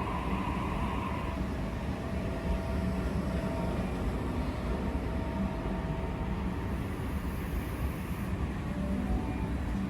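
Sydney Trains Waratah electric passenger train moving along the platform with a steady low rumble. A whine fades out about a second in, and there is a brief high hiss near the end.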